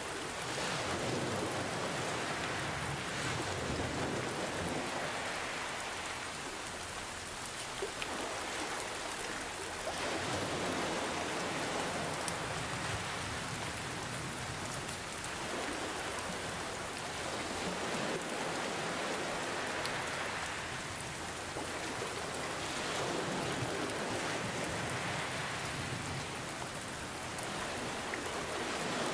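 Steady rain hiss mixed with ocean waves, the sound swelling and easing every few seconds as the waves wash in.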